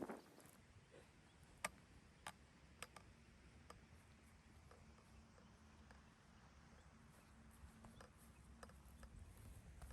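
Near silence with a faint low hum and a few scattered, sharp clicks, the loudest about a second and a half in.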